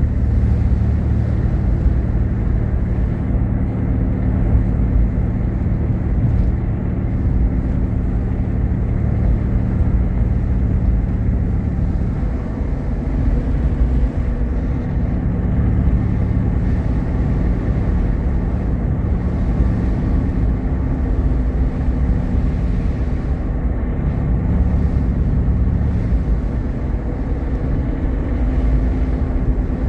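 A vehicle driving along a road, with steady engine and tyre rumble heard from inside the cabin; the engine note shifts slightly a few times.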